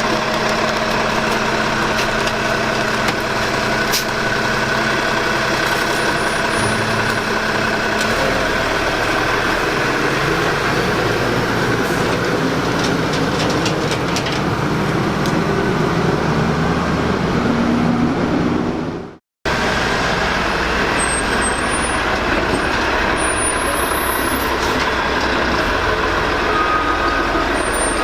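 Old CCC LET garbage truck with a Maxon automated side-loader body running steadily. Its engine note changes about eight seconds in, and the sound cuts out for an instant about two-thirds of the way through.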